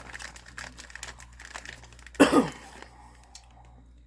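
Plastic candy bag crinkling as it is handled, then one short, loud vocal sound falling in pitch about two seconds in.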